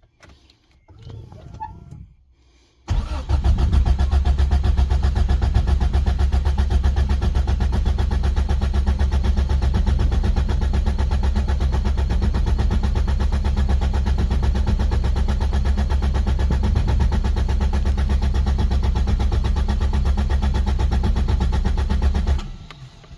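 Toyota Starlet turbo's 1.3-litre four-cylinder engine turned over on the starter motor with the injectors disconnected, so it cranks without firing: a steady, fast, even churning for about twenty seconds, starting about three seconds in and stopping near the end. It is being cranked to build oil pressure.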